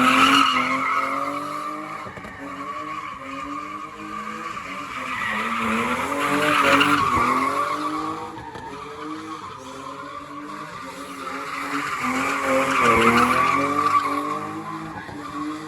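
BMW E36 Touring being driven sideways: the engine revs up in repeated rising pulls over a steady tyre squeal. The sound swells three times, about six seconds apart.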